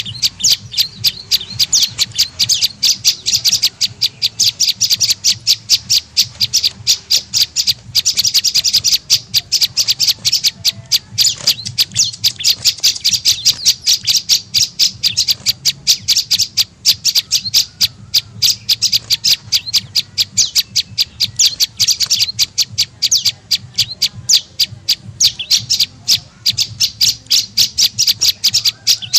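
Prenjak lumut calling as a bird-trapping lure call: an unbroken run of short, sharp, high chips, several a second, over a faint low hum.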